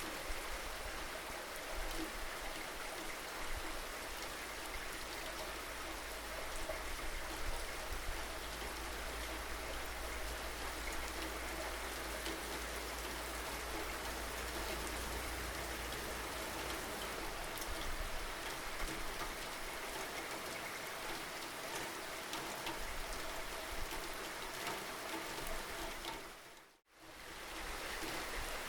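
Steady rainfall, with individual drops ticking through the even hiss. About 26 seconds in the sound fades almost to silence for a moment and then comes back.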